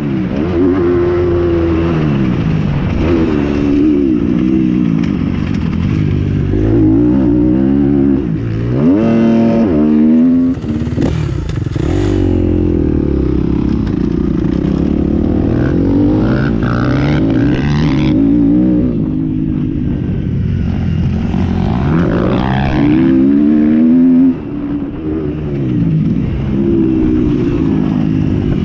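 Several motocross motorcycles racing, their engines revving up and dropping back over and over as they accelerate and shift gears, with the pitches of more than one bike overlapping.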